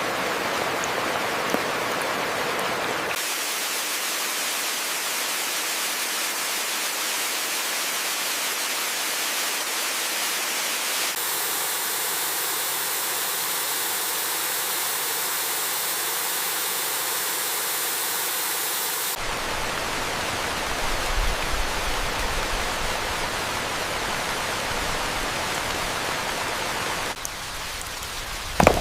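Steady heavy rain, an even hiss with no pitch, whose tone shifts abruptly every eight seconds or so as if cut between different rain recordings. A couple of sharp ticks come at the very end.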